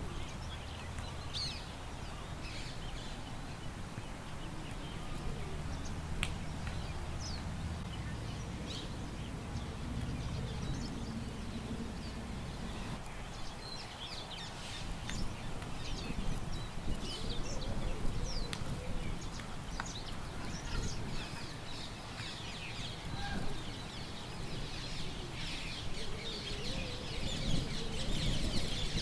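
Small birds chirping and calling on and off, the calls growing busier near the end, over a low steady wind rumble.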